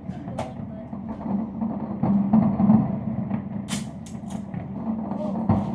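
Fireworks going off, with several sharp pops and crackles (one near the start, a quick cluster about two thirds through) over a steady low rumble.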